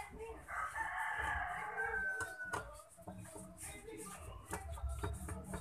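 A drawn-out bird call, about two seconds long, starting half a second in and falling in pitch at its end. Light clicks of a screwdriver on the fan motor's metal housing run underneath.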